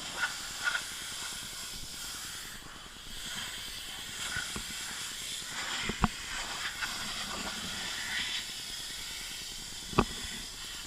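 Pressure washer spray hissing steadily as it cleans a car, with two sharp clicks, about six and ten seconds in.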